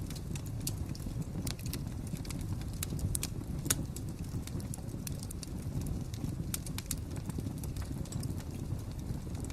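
Wood fire crackling: a steady low rumble of burning with irregular sharp pops and crackles, one louder pop a little under four seconds in.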